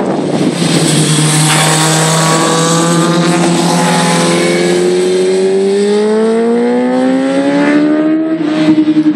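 Inline-four 600 cc sport bike with an aftermarket exhaust, its engine note climbing steadily in pitch for several seconds, then breaking off and changing near the end, as with a gear change.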